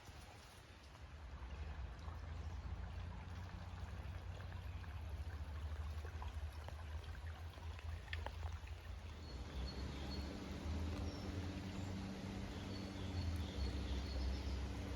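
Faint woodland ambience: a low rumble throughout, joined about nine seconds in by a low steady hum and short, faint, high bird chirps.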